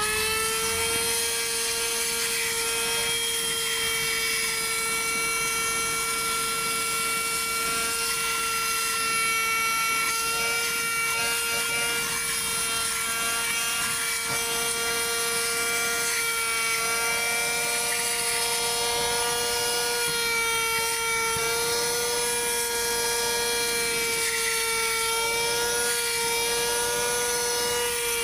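Budget handheld car vacuum cleaner running steadily, its small motor giving a high whine over a rush of air, the pitch wavering slightly in the second half.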